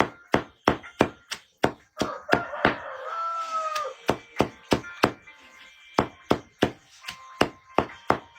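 A blade chopping against wood in a quick, steady rhythm of sharp strikes, about three a second. The strikes pause once around the middle, where a brief squeaky tone sounds.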